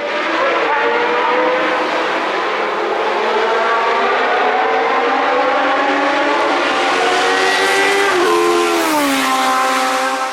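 Historic Formula 1 car's Cosworth DFV V8 at high revs, its pitch climbing steadily under acceleration for about eight seconds, then falling sharply as the car passes.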